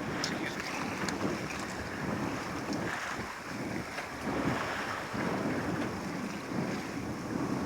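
Wind buffeting the microphone over water rushing and splashing along a sailboat's hull, rising and falling in uneven swells.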